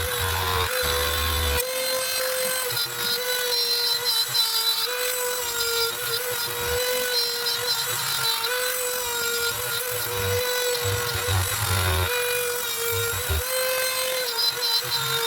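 Router spindle of a Genmitsu benchtop CNC running with a steady high whine while cutting plywood parts, its pitch dipping slightly now and then as the bit takes load.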